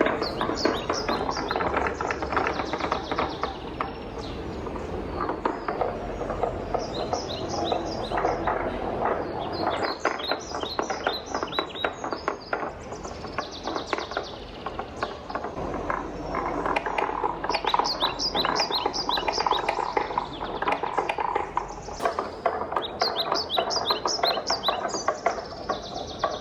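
Wooden balls rolling and clattering steadily along a wooden marble run, with bursts of quick, high-pitched ticks every few seconds as they run over a stretch of the track.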